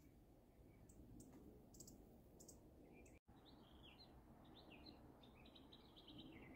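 Faint bird calls: a few short, very high ticks, then, after a brief dropout about three seconds in, a quick series of chirps.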